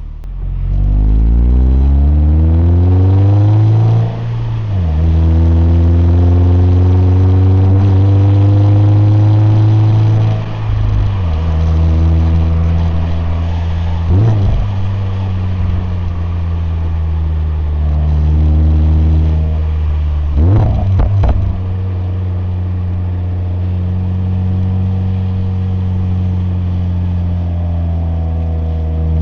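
Exhaust of a Subaru BRZ STI Sports (ZD8) with its 2.4-litre flat-four engine, pulling hard through the gears: the revs climb twice and drop sharply at each upshift. Later come a few short, quick blips of revs, then the engine settles into a steady cruise.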